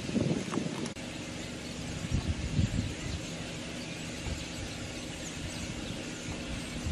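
A vehicle's engine running steadily at low speed, with wind buffeting the microphone for about the first second. A faint high chatter from the large flock of common starlings covering the road sits over it.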